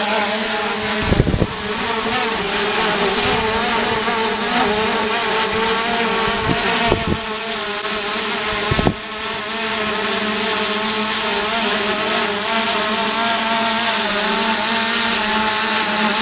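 Quadcopter drone (DJI Mavic Pro) propellers buzzing steadily, the pitch wavering slightly, with a few brief thumps on the microphone.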